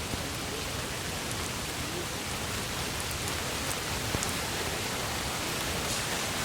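Wood campfire burning with a steady hiss and a few faint, scattered crackles.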